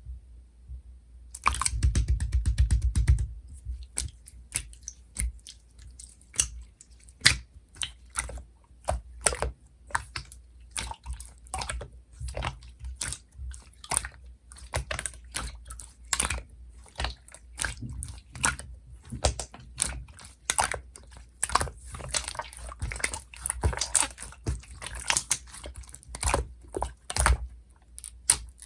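Bouncy clear blue jelly slime being pressed and played with by hand, making irregular sticky clicks and pops. It starts about a second and a half in with a short, dense run of clicks, then goes on in scattered pops.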